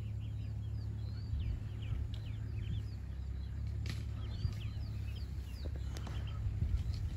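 Small birds chirping in quick, short, falling notes over a steady low hum, with two sharp clicks, one about midway and one near the end.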